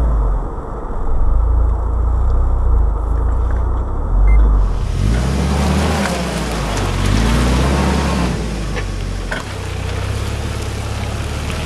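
UAZ Patriot SUV engine running at low revs as the vehicle crawls over a rough forest track without throttle, with a few short knocks from the body or suspension.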